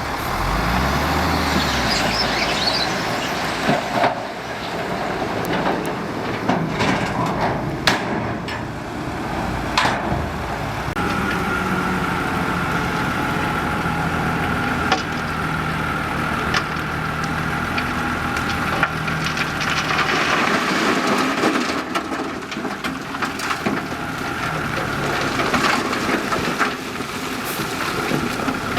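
Heavy earthmoving machinery running under load, with the engines droning steadily and sharp knocks and clanks scattered throughout. A steady high whine joins about eleven seconds in and carries on.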